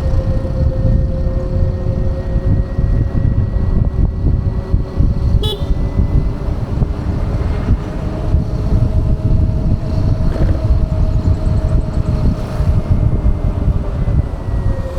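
Ola S1 Pro Gen 2 electric scooter riding along, with heavy wind rumble on the microphone and a steady whine from the drive. A brief sharp click about five and a half seconds in.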